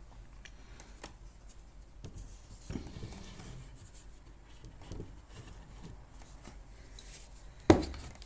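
Small steel mower drive parts being handled and fitted on the axle: scattered light metallic clicks and rubbing, with one sharp knock near the end.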